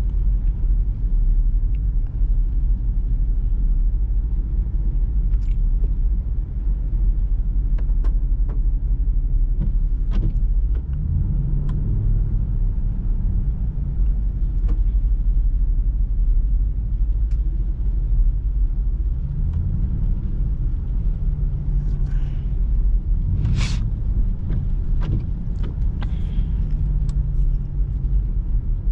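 Jeep Grand Cherokee SRT's HEMI V8 with a mid-muffler delete, heard from inside the cabin while cruising on the freeway: a steady low road-and-exhaust rumble. The exhaust drone swells twice, briefly about a third of the way in and longer in the second half. A few faint clicks sound, with a sharper one near the end.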